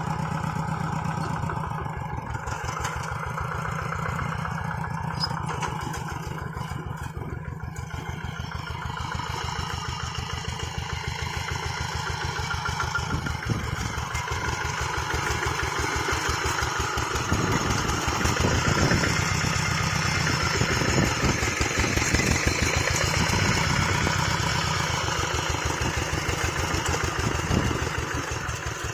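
Hand tractor's single-cylinder diesel engine running with a rapid, even firing beat and some clatter. It gets louder about halfway through and eases off again near the end.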